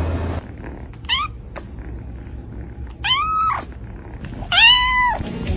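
Domestic cat meowing three times: a short rising meow, then two longer arched meows.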